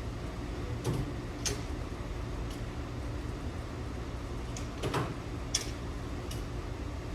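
Scattered light metallic clicks and knocks of hand tools being handled, about seven spread irregularly over several seconds, over a steady low hum.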